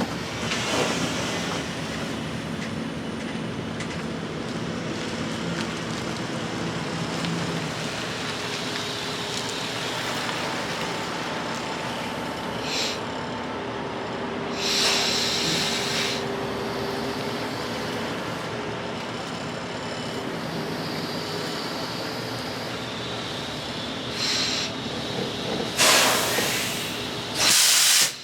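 A semi-truck's diesel engine running steadily, with short bursts of hissing air from the truck's air system about halfway through and again several times near the end.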